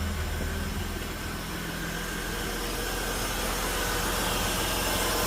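Holden Commodore's engine idling steadily just after starting, running smoothly.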